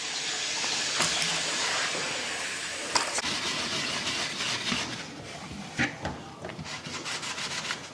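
Kitchen tap running water into the sink, a steady hiss that fades after about five seconds, followed by a few light knocks and clatters.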